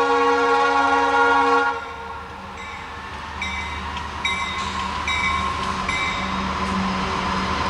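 Diesel locomotive air horn blowing a loud sustained note that cuts off just under two seconds in, followed by short ringing strokes about every 0.8 s, typical of the locomotive's bell, over the rising rumble of the approaching freight train.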